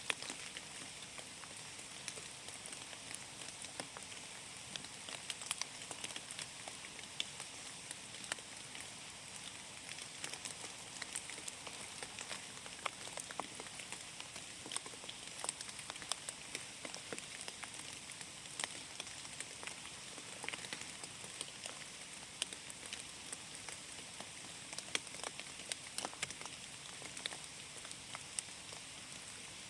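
Steady rain falling through forest, with many separate drops ticking onto leaves and the ground.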